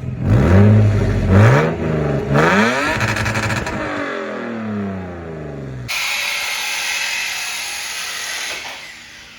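Lexus GS300's straight-six engine revved in several quick blips, the pitch rising and falling with each before dropping back toward idle. About six seconds in, a loud steady hiss cuts in suddenly and fades away near the end.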